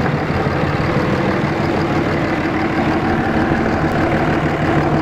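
Cummins 24-valve 5.9 inline-six turbodiesel running steadily at idle, with heavy crankcase blow-by from a bad injector.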